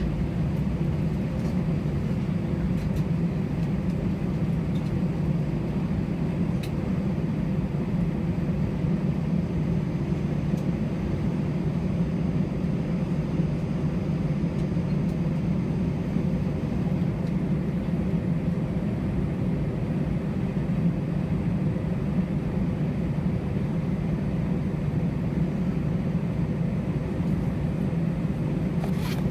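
Steady rumble and hum inside the passenger cabin of an Airbus A320-211, holding level with no change.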